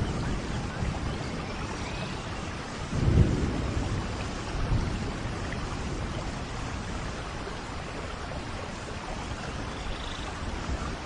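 Steady heavy rain in a rainforest, with a short low rumble of thunder about three seconds in and a weaker one soon after.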